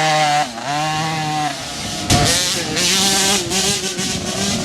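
Motocross bike engines revving on track, their pitch dipping and climbing with throttle and gear changes. About two seconds in, a louder bike comes in suddenly.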